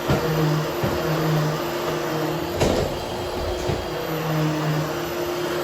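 Hoover Hushtone upright vacuum cleaner running while being pushed over nylon carpet, its steady hum shifting as the strokes change. One sharp knock about two and a half seconds in.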